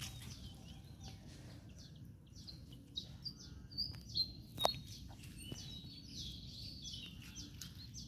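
Small birds chirping in quick, short high calls, thickest from a couple of seconds in, with one sharp click about halfway through.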